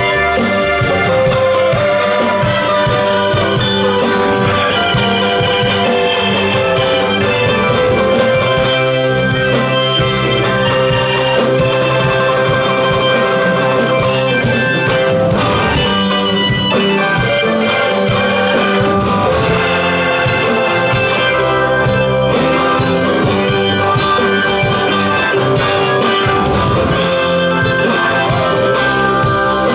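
Live rock band playing an instrumental passage: electric guitars over bass, keyboards and a drum kit, at a steady loud level.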